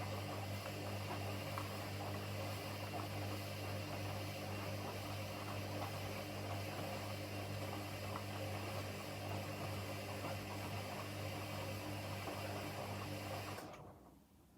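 Washing machine running with a steady low hum and hiss, which fades away about a second before the end.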